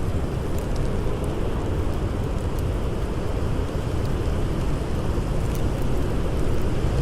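Blizzard wind blowing steadily with a low rumble, with a few faint crackles from a campfire.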